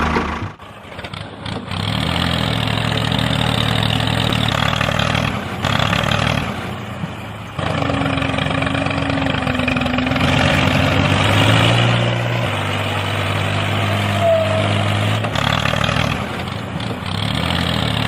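An engine running steadily, its pitch and loudness shifting several times, with a brief drop about six seconds in.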